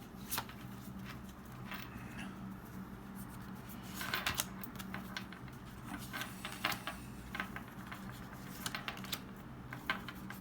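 Pokémon cards and booster-pack wrappers being handled: scattered light clicks and rustles, busier about four seconds in, over a steady low hum.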